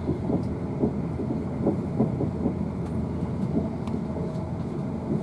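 Running noise heard inside a Siemens Desiro electric multiple unit at speed: a steady low rumble of wheels on rail, with frequent short knocks and rattles.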